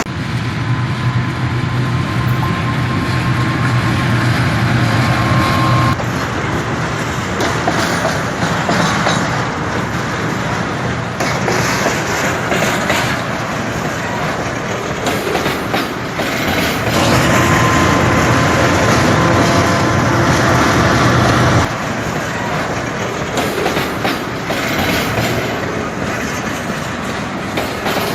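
Freight train running on the rails, its wheels clattering. In two stretches a steady low hum and a thin high whine join in, and the sound changes abruptly several times.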